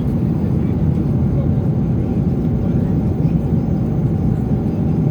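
Steady low roar of an airliner cabin in flight: jet engine and air-conditioning noise, with a faint steady hum running through it.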